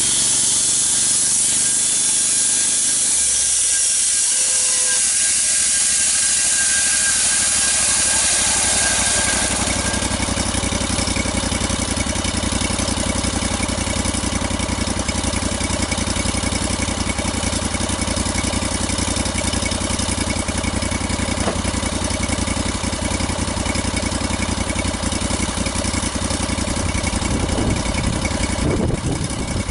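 Engine running steadily. A high hiss dominates for the first nine seconds or so, then gives way to a low, rapid rumble.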